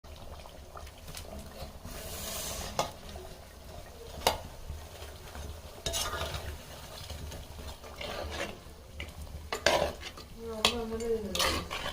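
Metal spoon stirring and scraping in a cooking pot, with irregular clinks against the pot and food sizzling as it fries.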